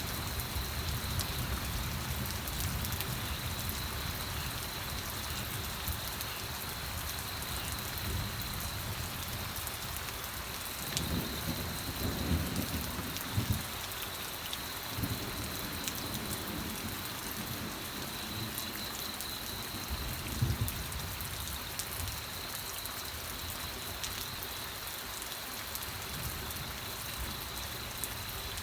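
Steady rain falling, with low rumbles of distant thunder at the start, partway through and again briefly later.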